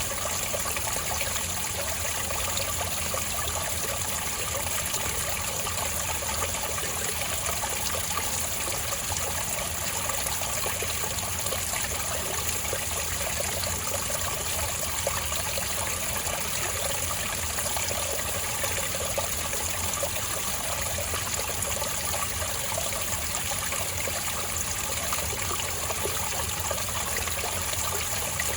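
Spring water trickling and flowing steadily over rocks, a gentle, even burble without let-up.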